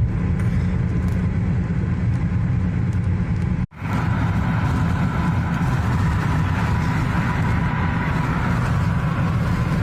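Steady low rumble of a car's engine and tyres on a snowy road, heard from inside the cabin while driving. It drops out for a split second a little over a third of the way in, as at an edit, and after that a faint steady high whine runs under the rumble.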